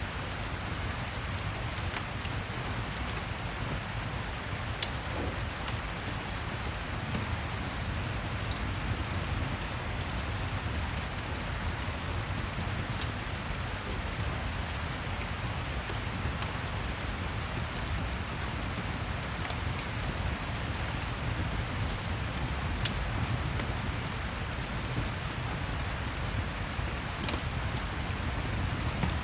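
Steady rain with a low rumble underneath, and a handful of sharp crackles from a wood fire scattered through it.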